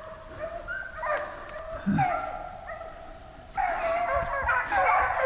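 A pack of deer hounds baying and barking on a running deer's trail, the chorus swelling louder about three and a half seconds in.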